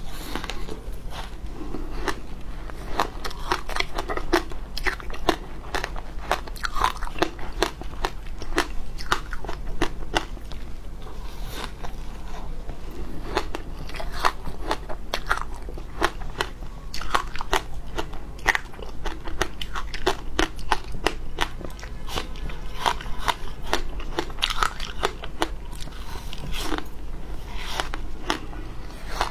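A person biting and chewing frozen matcha ice: a long run of crisp, irregular crunches and cracks, several a second with short pauses between bites.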